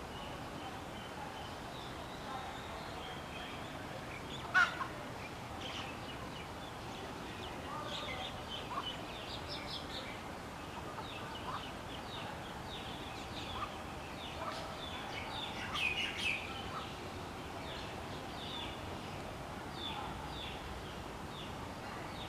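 Baby common mynas giving begging calls while waiting to be fed: many short, high, chirping calls repeated throughout. A sharp loud call comes about four and a half seconds in, and a louder flurry of calls around sixteen seconds in.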